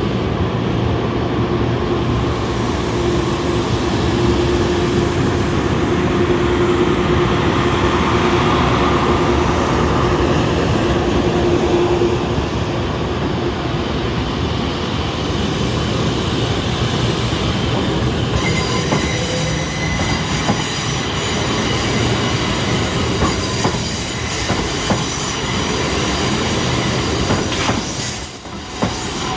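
N700S Shinkansen train set being shunted slowly over a level crossing, its wheels clacking over the rail joints. About two-thirds of the way through, high-pitched wheel squeal sets in, along with rapid clicking.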